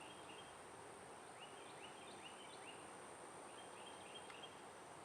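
Faint outdoor ambience: a bird calling in short runs of quick, falling chirps, over a steady high-pitched hiss.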